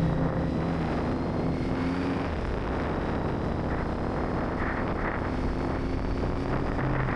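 Kawasaki Z900's inline-four engine running under way. Its note falls back about two seconds in, leaving mostly wind and road noise, then picks up again near the end.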